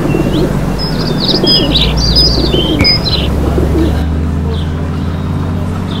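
Rapid high bird-like chirps in a quick cluster lasting about two seconds, starting about a second in, over a steady low hum.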